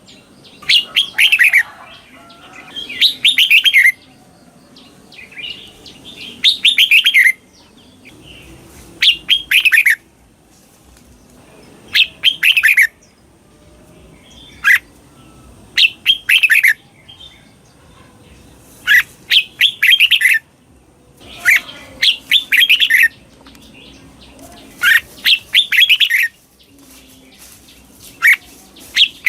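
Red-whiskered bulbul singing its 'double' (เบิ้ล) song: short, clear warbling phrases of quick rising and falling notes, repeated every two to three seconds.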